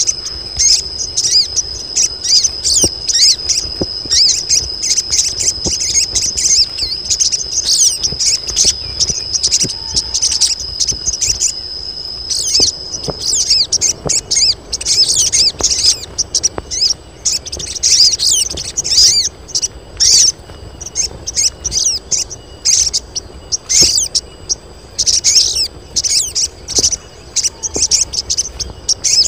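A group of female sogon birds chattering in rapid, high chirps and twitters, the breeding-condition calling used to draw in males. A steady high insect trill runs under them for the first half and stops about twelve seconds in.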